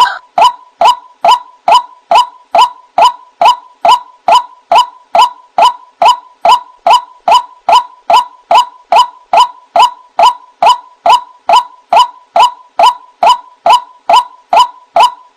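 White-breasted waterhen (ruak-ruak) giving its monotonous repeated call: one short note over and over, about two to three a second, each rising quickly onto a steady pitch.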